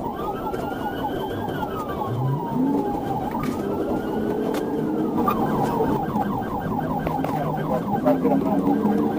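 Police car sirens in pursuit: one in a slow wail that rises and falls twice in the first six seconds, over another siren cycling in a fast yelp throughout.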